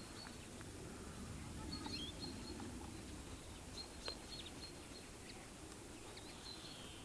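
Small birds calling now and then, short high chirps in little groups, over a steady low background rumble, with one brief click about four seconds in.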